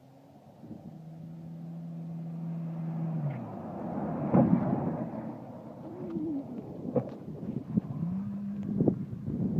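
Car driving on a road: a steady engine hum that falls away after about three seconds over rising road noise, with several sharp knocks.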